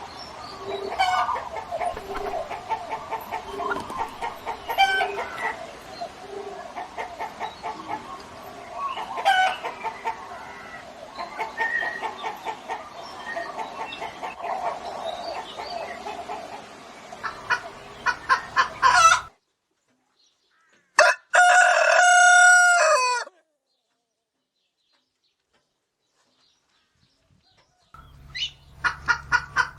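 Chickens clucking and calling, with a fast run of clucks that ends suddenly; after a brief silence a rooster crows once for about two seconds. After several seconds of silence, quick clucking starts again near the end.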